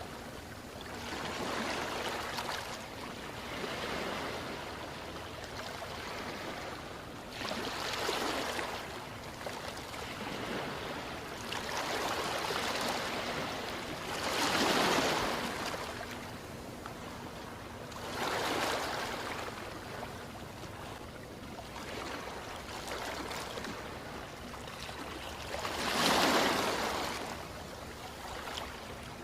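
Ocean surf: waves rush in and wash back in a steady series, one swell of hissing water about every three to four seconds, with the biggest one near the end.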